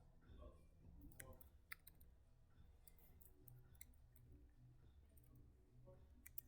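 Faint, scattered clicks of a computer mouse and keyboard over near-silent room tone.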